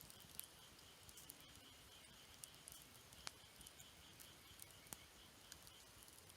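Campfire of burning wood crackling faintly, with scattered irregular sharp pops and snaps, a few slightly louder than the rest.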